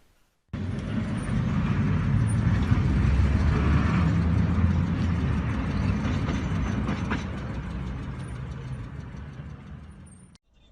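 Motor vehicle driving noise picked up by a dashcam: a steady low rumble of engine and road that starts abruptly about half a second in, eases off through the second half and cuts off shortly before the end.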